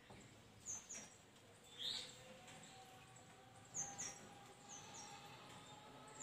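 A small bird chirping faintly: short, high, falling chirps, mostly in quick pairs, repeated several times.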